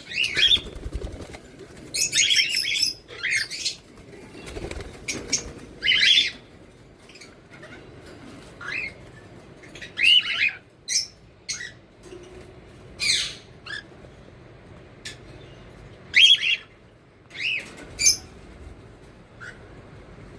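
Pet parrots squawking: short, harsh, high calls repeated irregularly every second or two.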